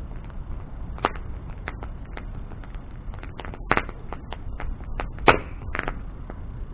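Wood bonfire burning: irregular sharp crackles and pops over a low steady rush of flame, with the loudest pops about three-quarters of the way through and a little after five seconds in.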